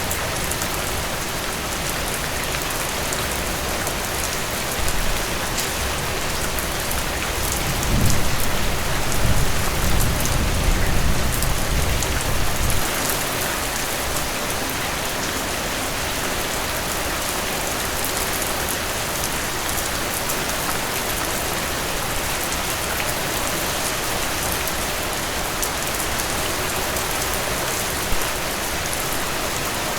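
Heavy rain falling steadily, a dense even hiss of drops on surfaces. A low rumble of thunder rolls in about eight seconds in and fades out some five seconds later.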